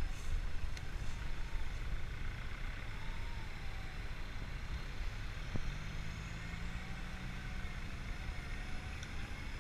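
A motor vehicle running with a steady low rumble; a low engine tone comes in about six seconds in.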